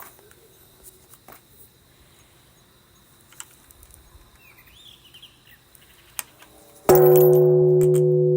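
Faint quiet morning ambience with a short bird chirp about halfway through, then near the end a large Japanese temple bell (bonshō) is struck once and rings on with a low, sustained tone that slowly fades.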